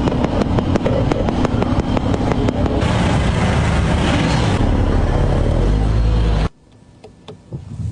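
Loud motor vehicle noise with many sharp clicks through it, cutting off abruptly about six and a half seconds in.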